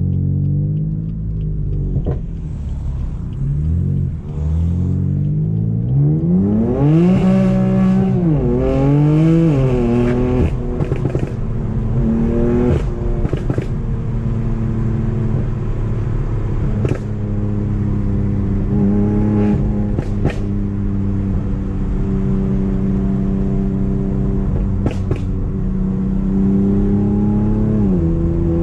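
Tuned BMW M4's twin-turbo straight-six through a straight-piped, decat Akrapovic exhaust under way: the engine note climbs hard and drops twice about a third of the way in, as under acceleration through gear changes, then holds a steady drone. A few sharp cracks come over the second half, and the note rises once more and falls off near the end.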